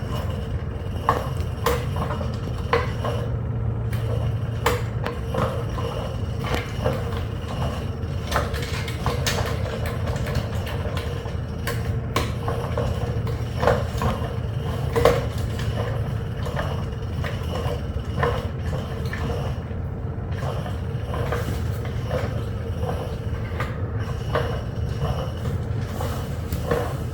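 Motorised cat trap toy running with a steady motor hum, overlaid with frequent irregular clicks and knocks.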